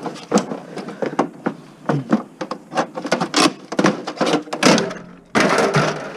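Knocks, clicks and clatter of plastic and metal parts being handled and pried apart as a stereo system with a CD player is taken apart for scrap. A denser burst of rattling comes near the end.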